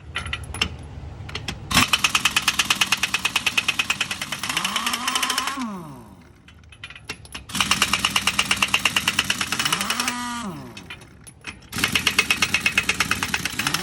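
Impact wrench hammering in three long bursts of rapid blows, each trailing off as the motor spins up and winds down when the trigger is let go.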